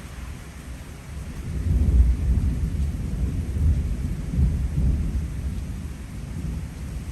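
Rolling thunder rumbling over steady heavy rain from a typhoon rainstorm, the rumble swelling to its loudest about two seconds in and dying away over the next few seconds.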